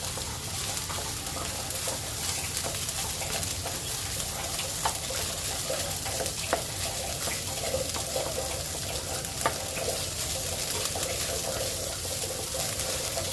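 Fried rice sizzling in a frying pan as it is stirred, a steady hiss with a few sharp clicks of the spatula against the pan.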